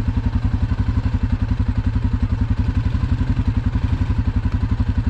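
Single-cylinder ATV engine running steadily at low revs in low range, with a fast, even beat of firing pulses.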